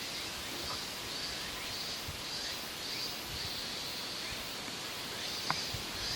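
Outdoor ambience: a steady rustling hiss, with a high chirping call repeating about twice a second and one short sharp chirp near the end.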